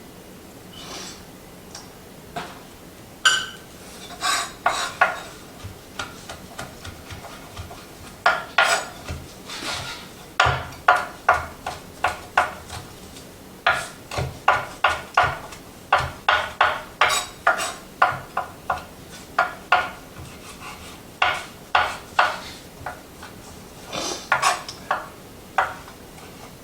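Kitchen knife chopping fresh mint and cilantro on a cutting board: a run of sharp, irregular strokes, sparse at first and then quicker, often about two a second.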